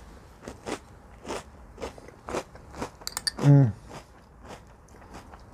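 Mouthful of French Toast Crunch cereal being chewed, a fine, light crunching about twice a second. About three and a half seconds in comes a short hummed "mm" that falls in pitch, the loudest sound.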